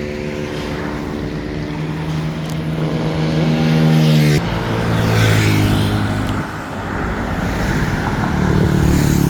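Several motor vehicles passing close by on the street one after another, the engine sound swelling as each draws near, loudest about four seconds in and again near the end.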